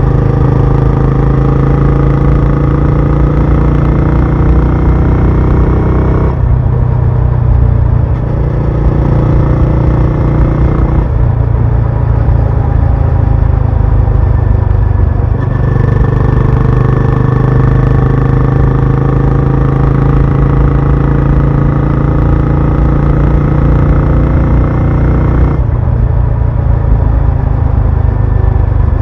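Benelli Imperiale 400's single-cylinder engine and exhaust under way at a steady cruise. The throttle eases off about six seconds in, opens again about eleven seconds in, and eases off again near the end.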